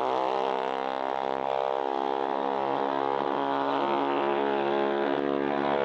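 Mini bike engines running in a drag race, a steady engine drone with several pitches gliding up and down.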